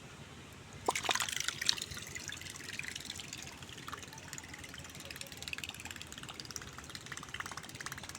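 Water splashing and churning, starting suddenly about a second in with many small crackling splashes, as the homemade electric boat's propeller runs in the water.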